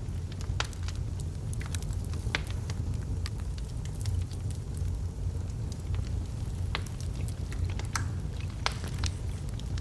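Logs burning in a fireplace, crackling with irregular sharp pops of varying loudness over a steady low rumble.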